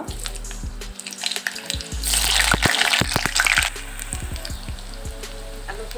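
Potato pieces dropped into hot mustard oil in a karahi, knocking against the pan. About two seconds in the oil bursts into a loud sizzle, which settles to a steadier, quieter frying sizzle a little before the end.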